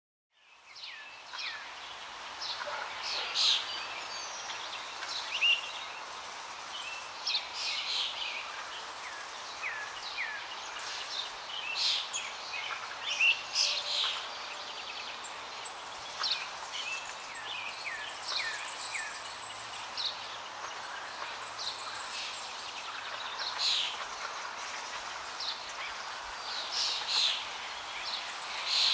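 Small birds chirping and singing over a steady hiss of outdoor ambience, fading in over the first second; the short calls come thick and fast throughout.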